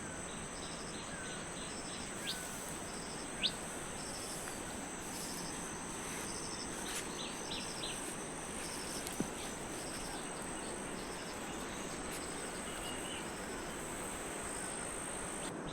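Insects trilling in a steady, high-pitched drone, with short pulsed chirps and a few brief bird calls over it.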